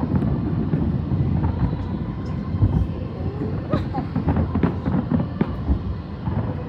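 Distant fireworks: a dense, continuous rumble of overlapping booms with sharper cracks now and then, easing off slightly near the end.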